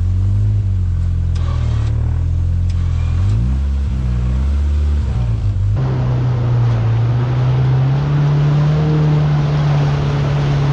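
Off-road vehicle engine running at low speed, rising and falling briefly twice as it is given throttle. About six seconds in, the sound switches abruptly to a steadier, slightly rising engine drone with more rushing noise.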